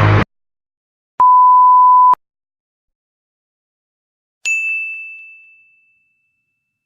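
A steady, pure beep tone lasting about a second, like a TV censor bleep. About three seconds in, a single high ding strikes and rings out.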